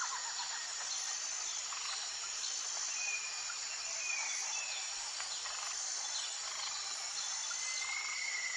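Steady high-pitched insect chorus, like crickets trilling, over a soft outdoor hiss, with a few short whistled calls scattered through it.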